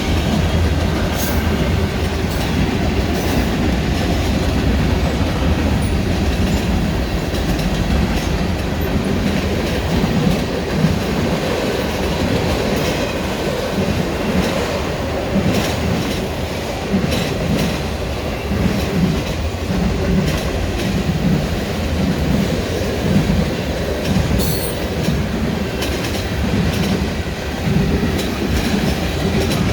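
Freight train rolling past close by: a steady loud rumble of rail cars with wheels clacking rhythmically over rail joints and brief squeals of wheel on rail.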